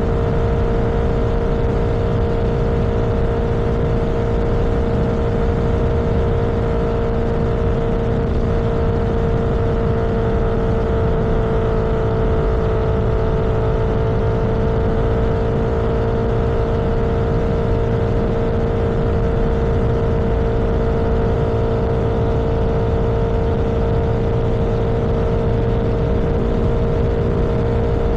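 Vehicle engine running at a steady cruising speed, a constant even hum over road and wind noise.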